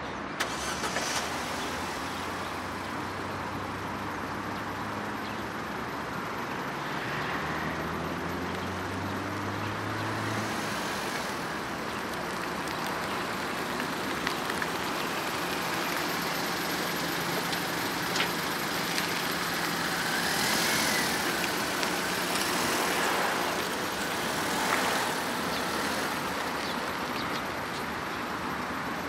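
A 2008 Opel Corsa's petrol engine running as the small hatchback drives at low speed. The engine note rises in pitch in a few short steps during the first third, then holds steady.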